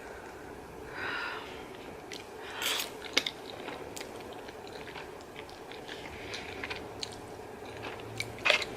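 Faint, irregular small clicks and soft rustles, as of objects being handled up close.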